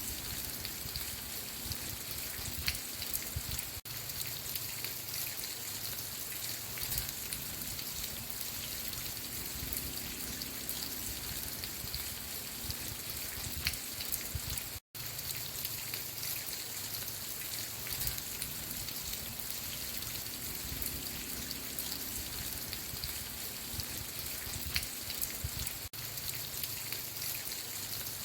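Steady rain falling, an even hiss with many small drops pattering on a surface. The sound cuts out for an instant three times.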